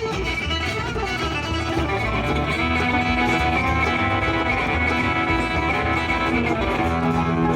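Live acoustic string band playing an instrumental passage: plucked guitar and mandolin over a stand-up bass keeping a steady low pulse.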